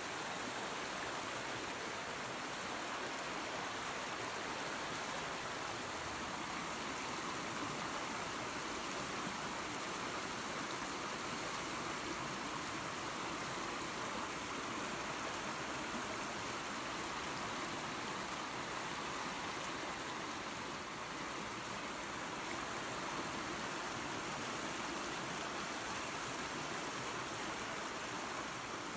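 Small waterfall and creek: water spilling and running over rocks in a steady, even rush.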